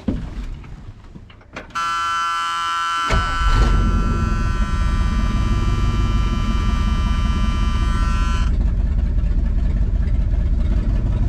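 1979 Ford F150's V8 being started: a dashboard warning buzzer sounds about two seconds in, the engine catches about a second later and settles into a steady, even run, and the buzzer cuts off after about six seconds.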